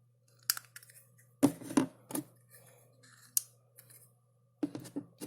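A series of sharp, irregular clicks and knocks, about seven in five seconds, from small objects being handled, over a faint steady low hum.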